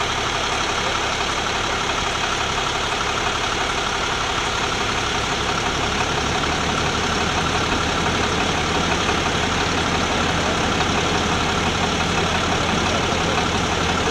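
Tow truck engine idling steadily under a constant hiss. Its low hum grows stronger about six seconds in.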